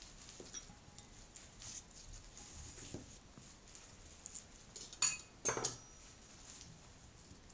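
Cockatiel bathing in a salad bowl: soft pattering splashes of water, with a few sharp knocks against the bowl, the loudest about five seconds in.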